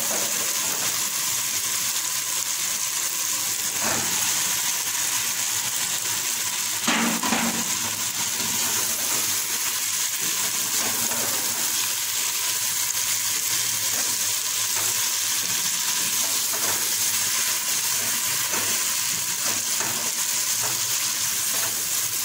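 Tomato sauce sizzling steadily in a non-stick pot while a wooden spatula stirs and scrapes it, with a few soft knocks. Fried eggplant slices are stirred into the sauce partway through, and there is a louder clatter about seven seconds in.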